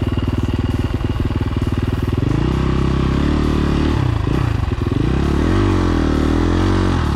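Dirt bike engine running steadily at low revs, then revved from about two seconds in, its pitch rising, dipping and swinging up and down as the throttle is worked.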